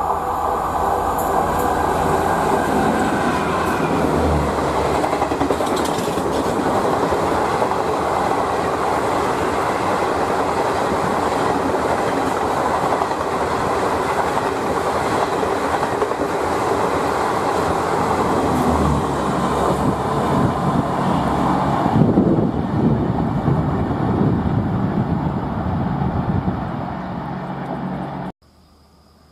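Amritsar–Saharsa Garib Rath express train passing at speed: a steady loud rush of wheel and track noise with some clatter. The noise changes and eases off about three quarters of the way through, then cuts off abruptly near the end.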